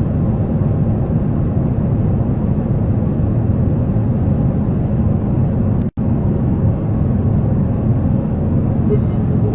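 Steady low rumble of a jet airliner, with a split-second dropout about six seconds in.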